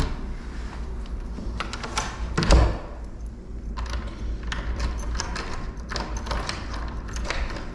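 Metal door lock hardware clicking and rattling as it is handled and fitted to a door, with one louder knock about two and a half seconds in.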